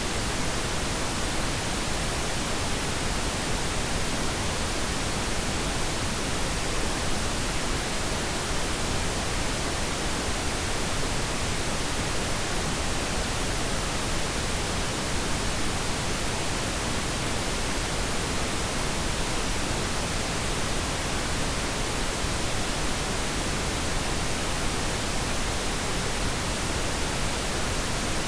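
Pink noise: a steady, even hiss spread across all pitches, with no change or events.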